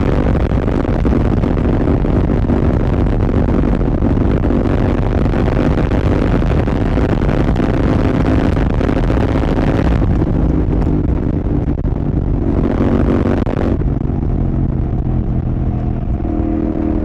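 Royal Enfield Continental GT 650's 648 cc parallel-twin engine running through an aftermarket Red Rooster exhaust, with wind rushing over the onboard microphone. After about ten seconds the wind noise drops away, flares briefly, then fades, leaving a steadier, lower engine note.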